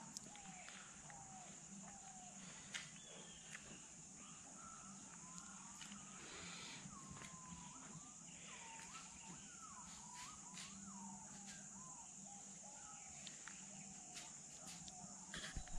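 Faint outdoor ambience: birds calling in wavering, gliding whistled notes over a steady high-pitched hiss, with a few scattered clicks.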